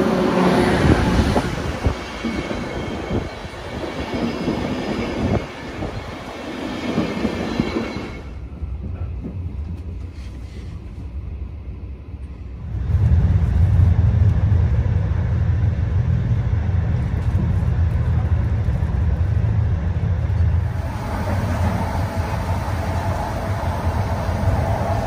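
Intercity train hauled by an NS Class 1700 electric locomotive rolling in along the platform, with wheel and traction noise. From about halfway through, heard from inside a coach, the train runs with a steady low rumble and hum.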